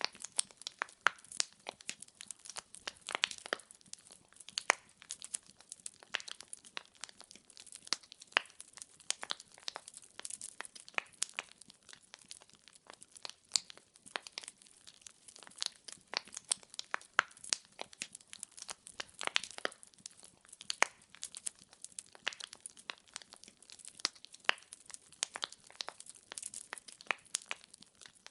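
Wood fire burning, its logs crackling and popping with many irregular sharp snaps, several a second.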